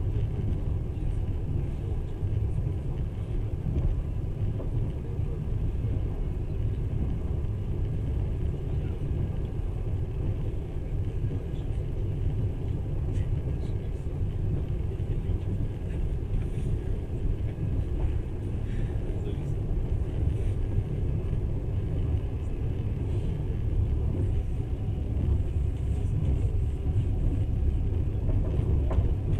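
Passenger train running steadily, a low even rumble of wheels on rails heard from inside the carriage, with a few faint ticks.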